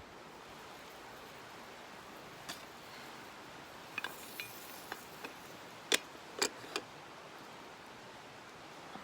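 A few light metallic clinks and clicks, the loudest about six seconds in, over a steady rushing hiss.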